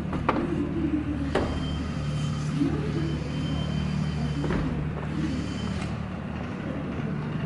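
Honda Steed 400 V-twin idling steadily through an aftermarket Supertrapp megaphone muffler after a cold start, with a few sharp clicks over it.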